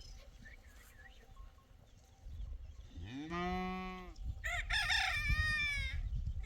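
A rooster crowing once, about four and a half seconds in, after a lower, drawn-out call of about a second from another farm animal.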